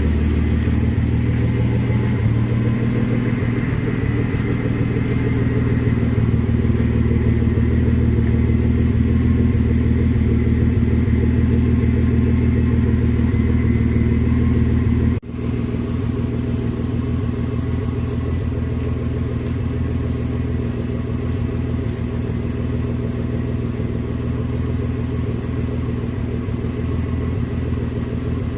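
Mercedes W124 300E straight-six with a straight-piped exhaust, running steadily at constant revs with a deep exhaust drone. The sound drops out for a moment about halfway through, then carries on a little quieter.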